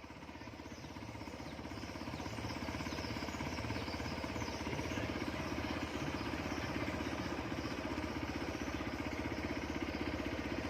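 Motorcycle engine running, growing louder over the first couple of seconds and then holding steady with a fast, even firing pulse.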